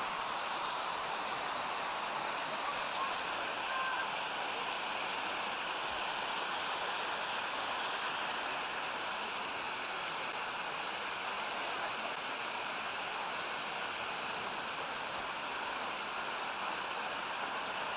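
Steady rushing of a mountain stream's waterfalls and cascades, water pouring without a break.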